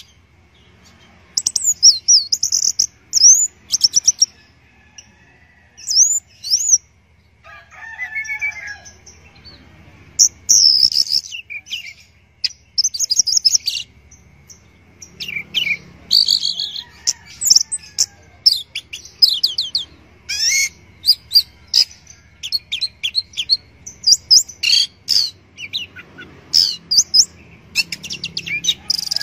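Orange-headed thrush singing a long, varied song of quick, high sweeping and trilled phrases, broken by short pauses, with a lower warbled passage about a third of the way in.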